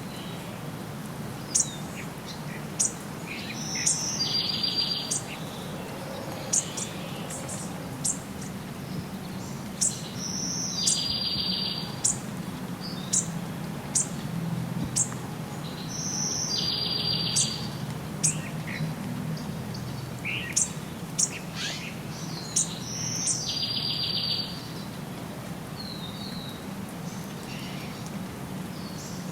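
Songbirds singing. One song repeats about every six or seven seconds: a short high note, then a buzzy trill of about a second. Sharp, high single chirps fall in between, over a steady low rumble.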